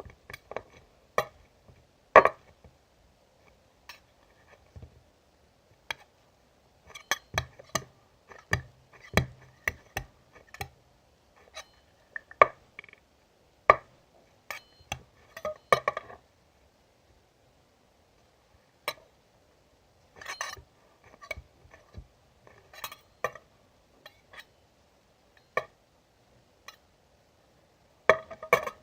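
Irregular clinks and light knocks of hard objects, scattered and unevenly spaced, some with a brief ring.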